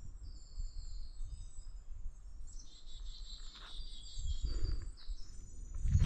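Several songbirds singing, high thin notes and trills that grow busier about halfway through, over a faint low rumble.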